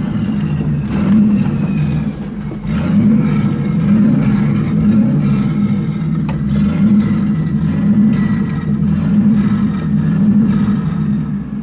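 Turbocharged 454 big-block V8 of a Chevy squarebody truck running hard under load, with a brief drop in level about two and a half seconds in.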